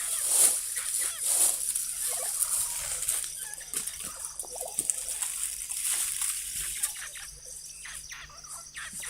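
Dry leaves rustling and crackling as handfuls are tossed onto a freshly lit campfire, with irregular sharp crackles throughout as the flames spread into the leaves.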